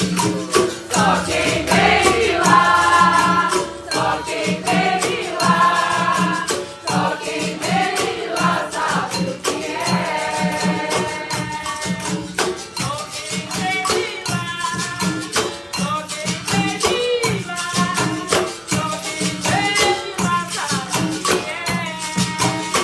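Capoeira Angola roda music: the bateria of berimbaus with caxixi rattles and pandeiro keeps a fast, steady rhythm while voices sing over it.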